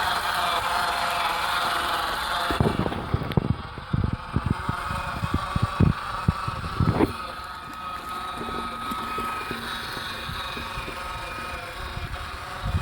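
G-scale garden-railway locomotive running along its outdoor track. A run of irregular knocks and clicks begins a couple of seconds in, followed by a quieter stretch with a thin steady whine.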